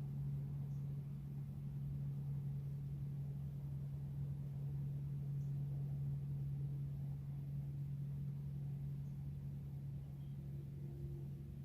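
A steady low hum that holds one pitch, with a few faint, brief high chirps.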